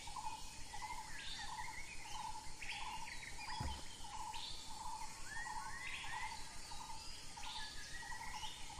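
Outdoor birdsong: irregular short chirps and sliding notes, over a steady pulsing call or insect trill repeated about twice a second. A soft low thump about three and a half seconds in.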